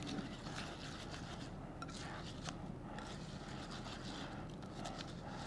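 Spoon stirring wet birdseed in a bowl, giving faint, irregular scraping and rustling.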